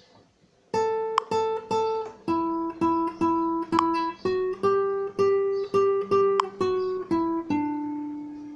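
Acoustic guitar played alone: after a short pause, a steady run of plucked notes about three a second moving through a melody, ending on one long note left to ring and fade.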